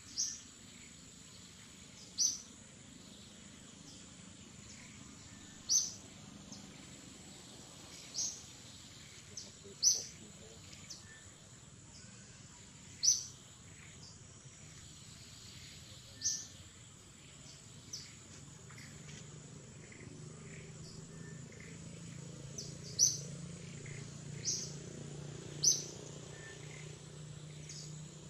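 Forest ambience: a bird gives short, sharp high chirps every two to three seconds over a steady high insect whine. A faint low drone comes up in the second half.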